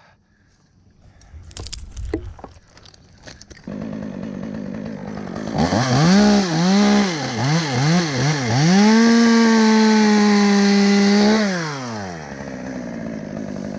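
Chainsaw engine, after a few faint knocks, comes in idling about four seconds in. It is revved up and down several times, held at high revs for about two seconds, then drops back to idle near the end.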